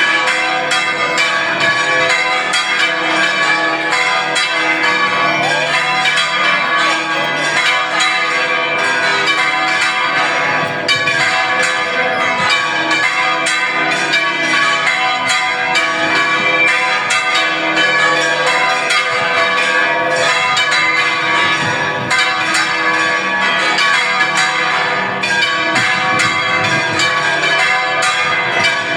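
Church bells ringing without a break, many strikes overlapping into a dense, loud peal of several pitches: festive ringing for a procession.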